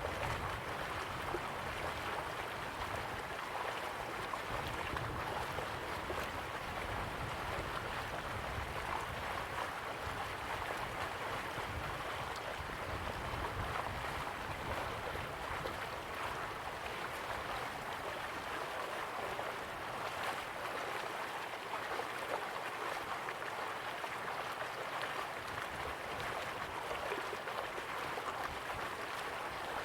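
Dudhsagar Falls: a large waterfall's water rushing down in a steady, even wash of noise.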